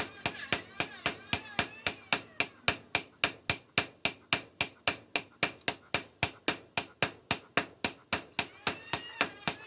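Hammer blows on a steel chainsaw bar being forged into a machete, in a fast, even rhythm of about four strikes a second.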